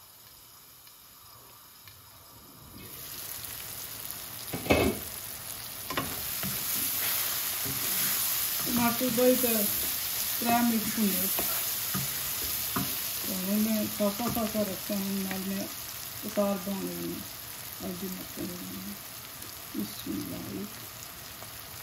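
Onions and tomatoes frying in oil in a non-stick frying pan. The sizzle picks up once the lid comes off about three seconds in, and a wooden spatula stirs the pan. There is one sharp knock near five seconds, and through the middle a run of short, low pitched sounds.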